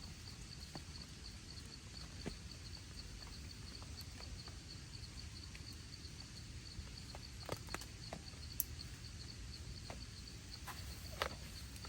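Quiet rain-camping ambience: a low steady rumble with scattered single drops tapping on the shelter, under a continuous high, rapidly pulsing insect trill.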